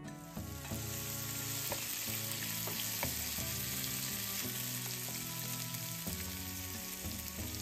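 Frozen vegetables, including green beans, potato pieces and a frozen spinach puck, sizzling steadily as they fry in oil in a nonstick skillet and are stirred with a wooden slotted spatula. The sizzle sets in right at the start.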